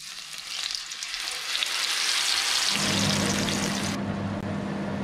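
Blended chilli and spice paste sizzling as it is poured into hot oil in a frying pan, the sizzle building over the first two seconds or so. A steady low hum joins about three seconds in.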